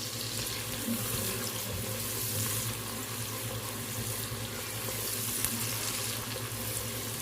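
Chopped tomatoes sautéing in hot oil, a steady sizzle.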